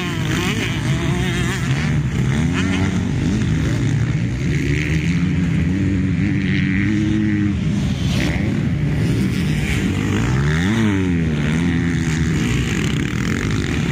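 Several motocross bikes' engines revving and changing gear over and over, their pitches rising and falling against each other; one climbs and then drops sharply about eleven seconds in.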